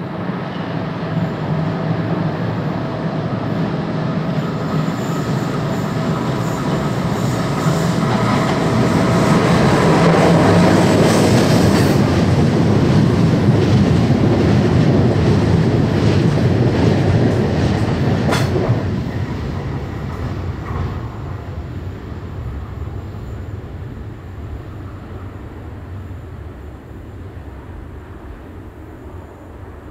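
A train passing: its rumble and wheel clatter build to a peak through the middle, with a single sharp clank about two-thirds of the way through, then fade away.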